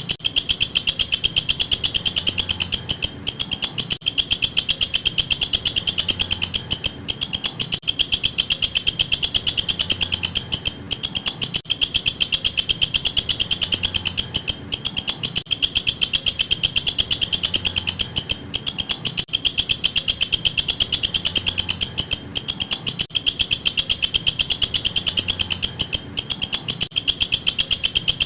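Walang kecek katydid calling: a fast, steady train of high, dry ticking pulses, broken by a short pause about every four seconds.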